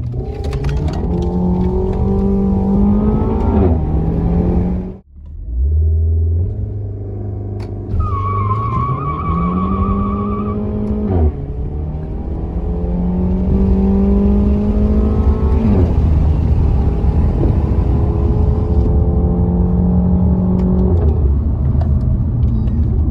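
Renault Mégane RS's 1.8-litre turbocharged four-cylinder engine accelerating hard, its pitch climbing and then dropping at each gear change, several times over. The engine sound cuts out briefly about five seconds in, and a wavering high squeal sounds for a couple of seconds from about eight seconds in.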